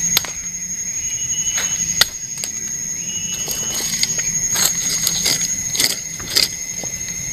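Steady high-pitched insect drone in tropical forest, with scattered sharp knocks and clicks from work, the loudest about two seconds in.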